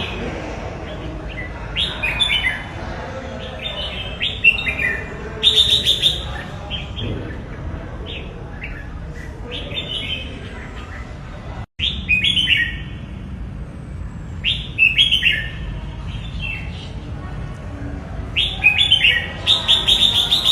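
Red-whiskered bulbul singing short, bright, warbling phrases, repeated every few seconds over a steady low background hiss.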